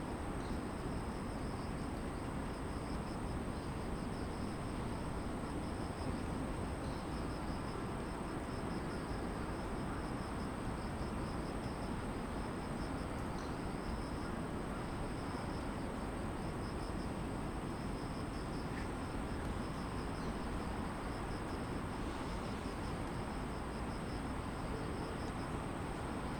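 Grass insects chirping in a steady pulsing rhythm, with one high continuous trill, over the even low hum of distant city traffic.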